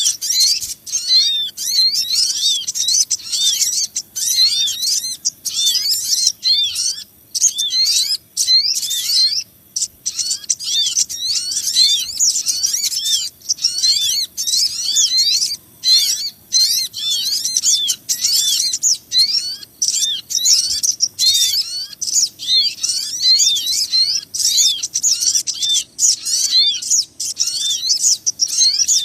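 Bird-lure recording of small birds, the sogon among others, calling excitedly: a dense, noisy tangle of rapid, high chirps and scolding notes, many overlapping, with only brief pauses.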